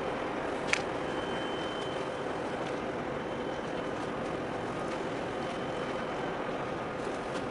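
Steady outdoor rumble of distant engines and wind with a faint hum, and one short sharp click under a second in.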